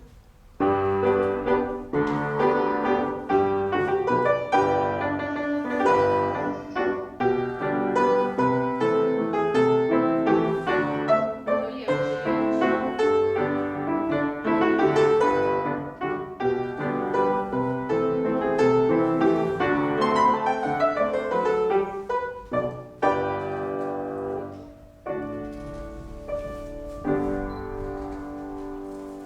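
Piano playing a classical-style piece as accompaniment for a ballet class exercise, starting about half a second in and closing on a few held chords near the end.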